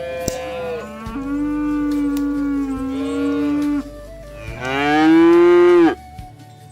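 Cattle mooing several times: a long low steady moo, then a louder moo about four and a half seconds in that rises in pitch and falls away.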